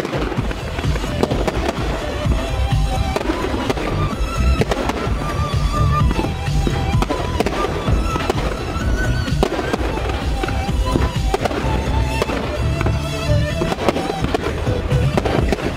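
Fireworks display: shells bursting in a rapid run of bangs, over music.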